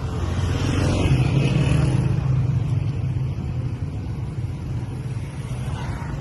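A motor vehicle's engine passing close by, loudest about one to two seconds in, then easing to a steady low hum.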